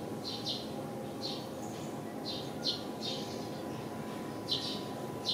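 Small birds chirping: short high chirps, often in quick pairs, every second or so, over a steady low background hum.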